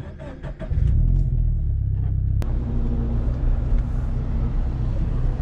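Turbocharged Scion FR-S flat-four engine starting: a few short clicks of cranking, then the engine catches a little under a second in and settles into a steady low rumble at idle. A single sharp click sounds about two and a half seconds in.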